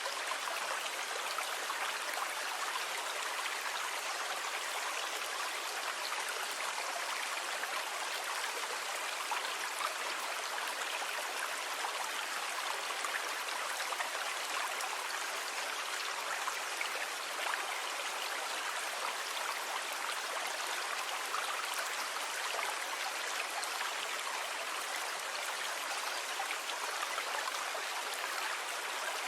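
Sea water washing as a steady, even rush with no distinct wave surges.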